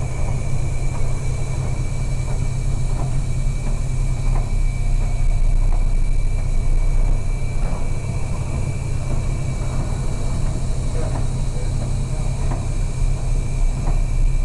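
Steady low drone of a merchant ship's engines and machinery, with a thin, steady high whine above it and scattered faint knocks and rattles as the ship works in heavy seas.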